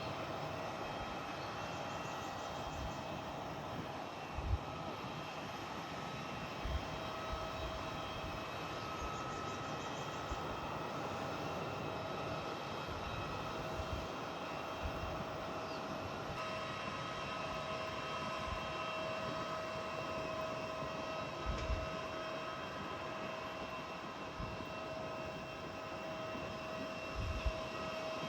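Airliner engines running steadily with a high whine of steady tones, the whine changing a little about halfway through. A few short low thumps occur.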